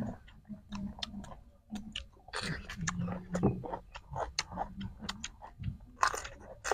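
Crunchy biting and chewing of raw cucumber, picked up close by clip-on microphones, with many small crisp clicks. The loudest crunches come about two and a half seconds in and again near the end.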